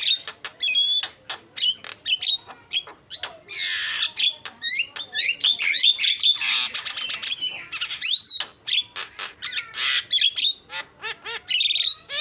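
Javan myna (jalak kebo) singing a busy chattering song of rapid clicks, gliding whistles and harsh squawks, with hardly a pause.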